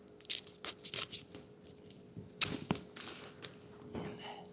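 Duct tape being pulled off the roll and torn in a series of short, irregular rips, with light handling clicks, as it is wrapped around a tail-light wiring connector that keeps coming loose.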